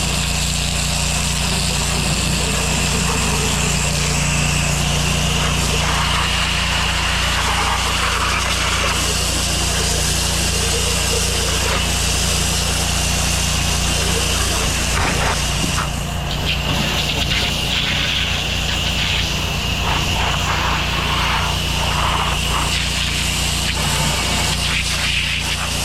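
Gas-engine pressure washer running steadily, its water jet hissing, with a steady high whine over the engine.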